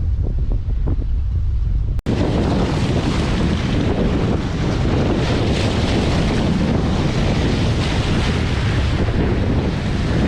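Strong wind buffeting the microphone in a loud, steady rumble. It breaks off sharply for an instant about two seconds in, then carries on with a harsher hiss.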